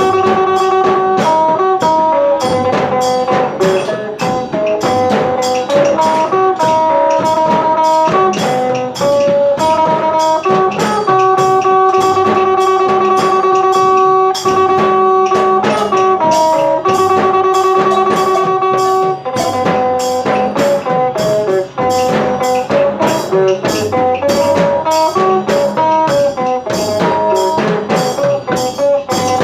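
Phin, the Isan plucked lute, playing a fast, repeating melody over held drone notes, backed by a steady drum beat.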